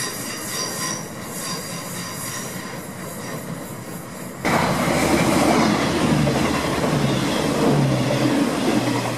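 London Midland Class 323 electric multiple unit pulling away, its wheels running over the track with faint regular clicks. About four seconds in, the sound cuts suddenly to a much louder CrossCountry Voyager diesel-electric train passing close at speed: a dense rushing noise with a low humming tone that steps up in pitch, then holds steady.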